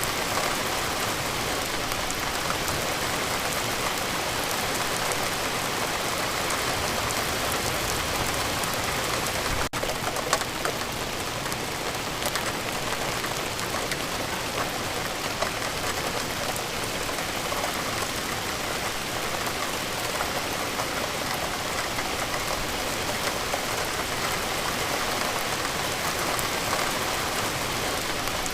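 Steady rain falling, a dense even patter with scattered sharper drops. There is a momentary drop-out about ten seconds in.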